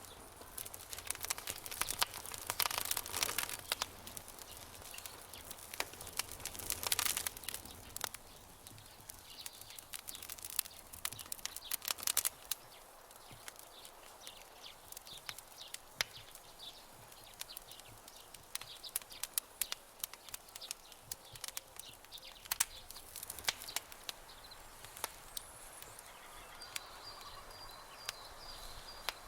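Campfire crackling and popping, with scattered sharp snaps and louder, denser stretches of crackle about two and seven seconds in. A faint bird call near the end.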